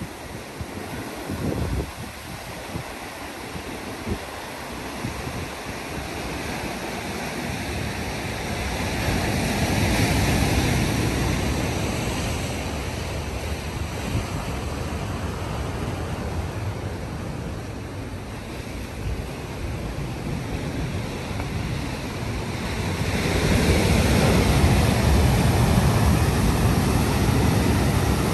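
Ocean surf washing and breaking, swelling louder twice, about a third of the way in and again near the end. Gusts of wind hit the microphone in the first few seconds.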